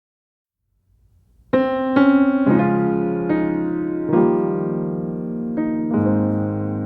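Background piano music: slow, held chords that change about once a second, starting after a second and a half of silence.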